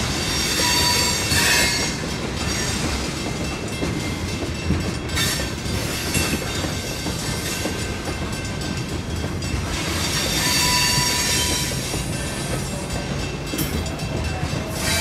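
Freight train of tank cars rolling slowly past: a steady rumble of wheels on rail with occasional clanks, and wheel flanges squealing high about a second in and again around ten seconds in.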